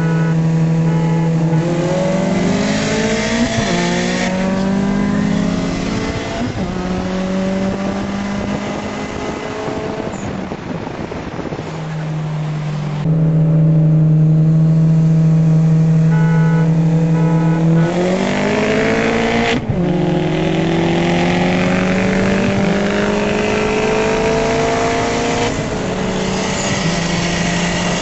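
Car engine heard from inside the cabin, accelerating hard: the revs are held steady, then the pitch climbs quickly, breaks at a shift and climbs again in the next gear. About halfway through, the revs are held loudest for a few seconds, then climb fast, break at a shift, and rise in a long pull to the end.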